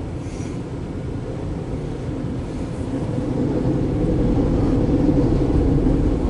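Train of empty autorack cars rolling past: a steady low rumble that grows louder about three seconds in.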